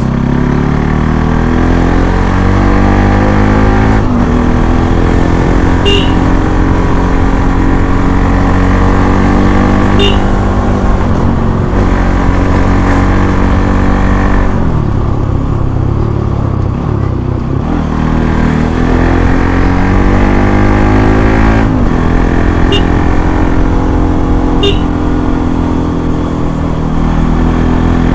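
Bajaj Pulsar NS200's single-cylinder engine on its stock exhaust, accelerating hard. The pitch climbs through each gear and falls back at upshifts about 4 seconds in and again near 22 seconds, and it eases off for a few seconds in the middle before pulling up again.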